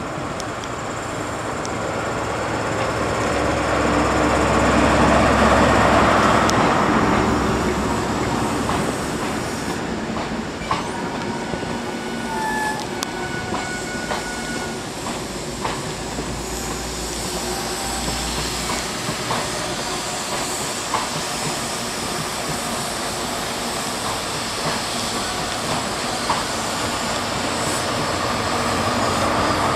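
A Class 43 High Speed Train passing close by. The leading power car's diesel engine swells to its loudest about five seconds in, then the coaches roll past with clicks over rail joints and a few brief wheel squeals. The rear power car grows louder near the end.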